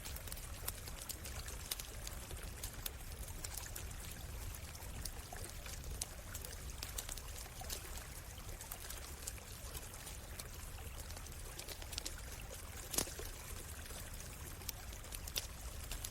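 Stream water running steadily, with a campfire crackling over it in scattered sharp pops, one louder pop about thirteen seconds in.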